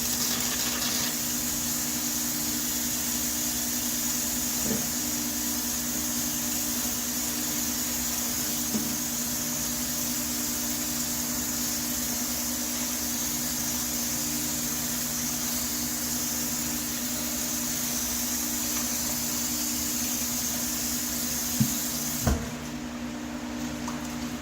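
Water spraying steadily onto a metal HVAC vent register, rinsing off degreaser foam, with a steady hiss that cuts off suddenly with a click about two seconds before the end.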